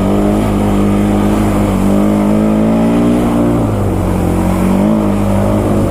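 Honda Foreman ATV engine running under way, its pitch rising and falling as the throttle is worked: it climbs about half a second in, again around two seconds in, drops near four seconds, then rises briefly once more near five seconds.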